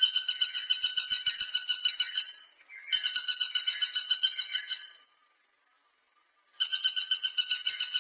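Woodpecker calling: a rapid, even rattle of harsh pitched notes, about seven a second, given in three bursts of about two seconds with short pauses between them.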